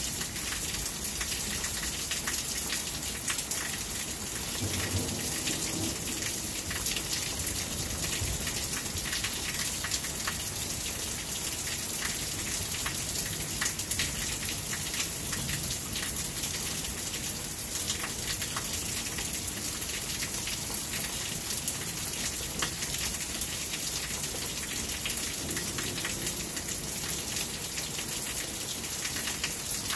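Steady rain falling, with many separate drops striking close by. A faint low rumble of distant thunder comes about five seconds in and again near the end.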